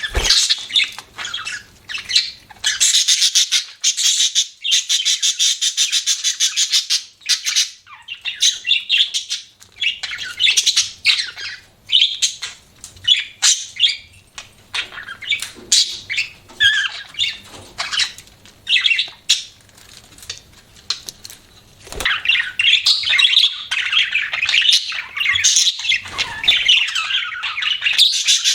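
Budgerigars chirping and chattering in quick, busy warbles, with a long dense stretch of chatter a few seconds in and another near the end, and scattered single chirps between.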